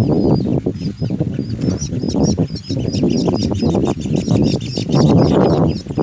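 Baby birds giving rapid, high chirping calls, about four or five a second, that start up and keep going from roughly the second second onward. Under them runs loud, constant rustling and scuffling noise.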